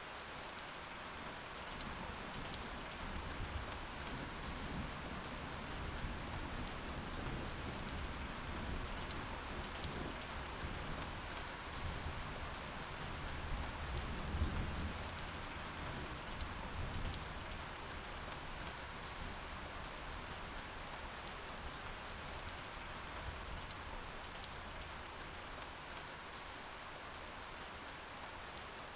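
Steady rain falling, with a low rumble of distant thunder building through the first half and peaking around the middle before dying away.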